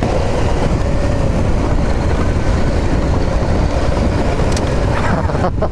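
Adventure motorcycle under way: engine running steadily under heavy wind rumble on the rider's microphone.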